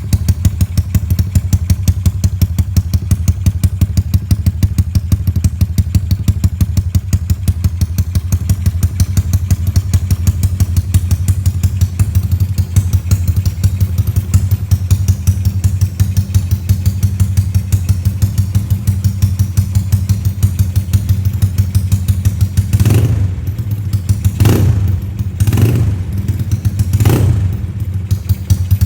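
Yamaha Mio scooter's single-cylinder 155cc engine idling through an SPS aftermarket exhaust, a steady fast-pulsing exhaust beat as the engine warms up. Near the end come four short throttle blips.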